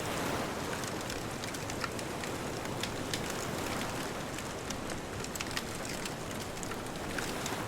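Wood bonfire crackling, with frequent irregular sharp pops and snaps over a steady wash of distant ocean surf.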